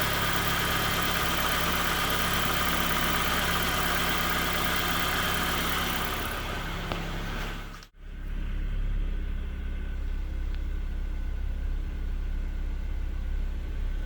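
Nissan QG18DE 1.8-litre four-cylinder engine idling unevenly, the rough idle of a head gasket burnt through between cylinders 1 and 2. About eight seconds in the sound cuts out briefly, and the idle continues duller, with more low rumble.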